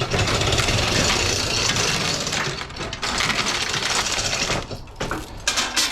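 A rapid, steady mechanical clatter, like a fast-running mechanism, for about four and a half seconds, then a few separate clicks near the end.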